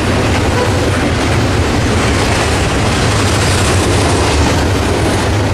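Freight train rolling past close by: a loud, steady rumble of wheels on the rails with a low hum underneath.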